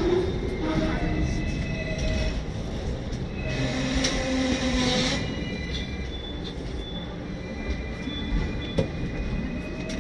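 Hong Kong electric tram running along its street rails: a steady rumble of steel wheels on rail with thin, drawn-out high squeals of the wheels.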